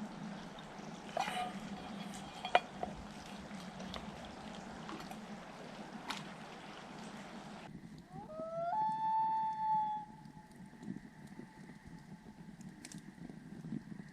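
Campfire crackling, with scattered pops and one sharp snap about two and a half seconds in. Past the middle a common loon wails: a call that slides up in pitch and then holds one long note for about a second and a half before fading.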